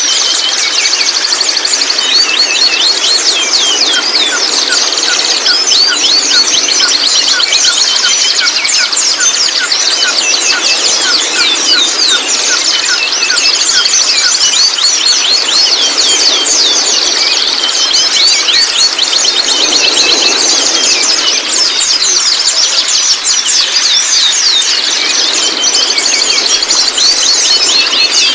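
Juvenile white-rumped shamas calling: a dense, continuous chatter of rapid, high, sharp notes, many overlapping, with a run of lower repeated notes in the first half.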